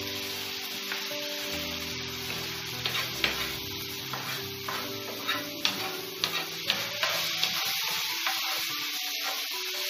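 Chopped tomatoes and onions sizzling in a nonstick frying pan while being stirred with a wooden spoon. Sharp taps and scrapes of the spoon against the pan come in from about three seconds in.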